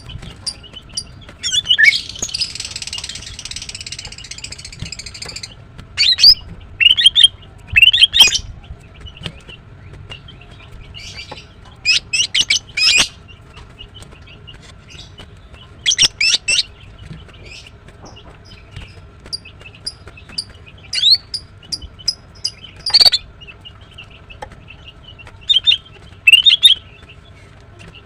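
Female greater green leafbird calling: short, sharp chirps in quick clusters of two to five, repeated every few seconds. These are the calls of a female in breeding condition, used to call up males. A brief rushing hiss runs for about three seconds near the start.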